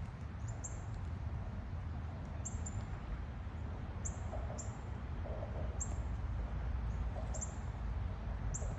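A small bird chirping outdoors: short, very high chirps, mostly in pairs, repeating every second or so, over a steady low rumble.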